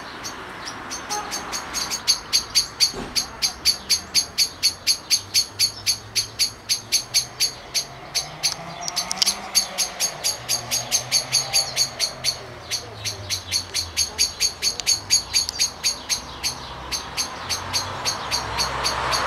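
A bird calling a long run of short, evenly spaced high chirps, about three or four a second.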